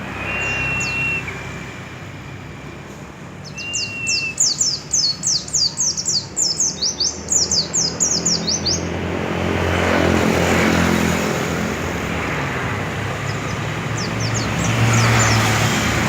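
A pleci (white-eye) songbird singing: two short high whistles, then a fast, very high twittering run from about three to nine seconds in, with more twittering near the end. A broad rushing noise swells midway and again near the end.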